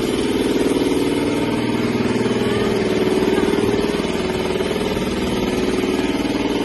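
A steady engine or motor running with an unchanging drone.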